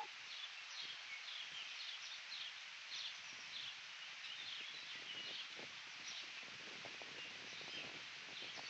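Faint outdoor ambience: a steady soft hiss with small birds chirping, many short high chirps coming one after another.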